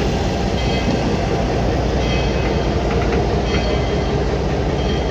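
A train moving slowly through shunting manoeuvres: a steady rolling rumble and hum, with short high squeals now and then and a few light clicks.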